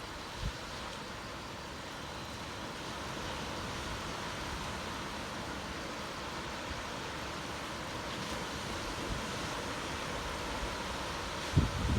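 Steady wash of ocean surf breaking on a sandy beach. Wind buffets the microphone briefly just after the start and again near the end.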